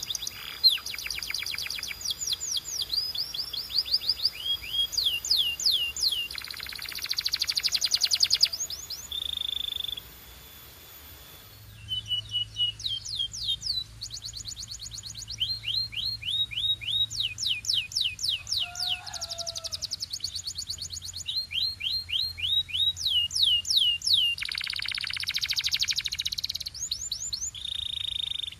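Canary singing: fast runs of repeated down-sweeping notes and rapid trills, with short held notes between phrases. The song breaks off briefly about ten seconds in, then picks up again.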